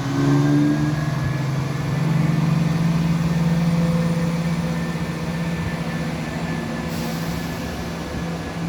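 Class 170 Turbostar diesel multiple unit pulling out of the station, its underfloor diesel engines humming and rising in level about two seconds in, then running steadily under power. A brief hiss comes near the end.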